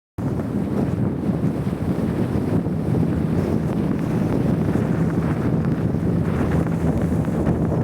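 Strong blizzard wind blowing across the microphone in a steady, loud rush, cutting in abruptly just after the start.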